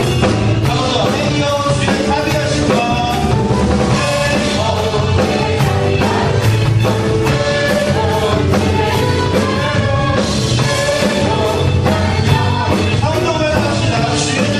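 A worship band plays an upbeat praise song with drum kit and sung voices.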